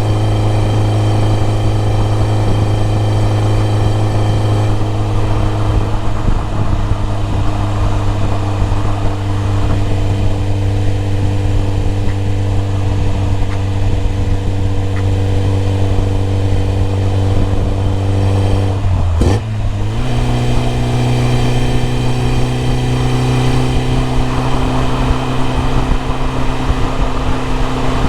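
BMW E30 M3's S14 four-cylinder engine running at a steady pitch. About two-thirds of the way in, the engine speed briefly dips and swoops, then settles on a steady, slightly higher note.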